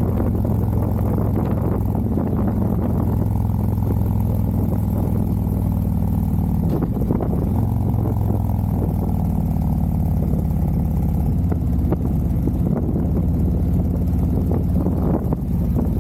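Harley-Davidson motorcycle's V-twin engine running steadily while riding, with wind rushing past. The engine note shifts briefly about seven seconds in.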